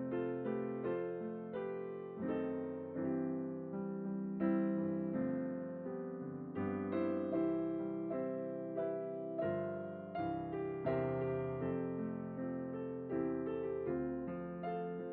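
Background music: a gentle solo piano piece, single notes and chords struck at an unhurried pace and left to ring and fade.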